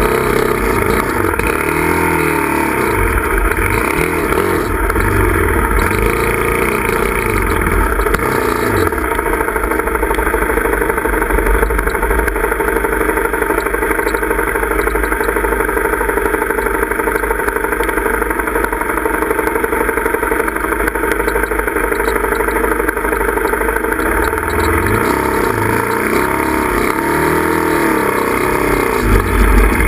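Dirt bike engine revving up and down on a rough, rocky trail, its pitch rising and falling in the first few seconds and again near the end, running steadier in between.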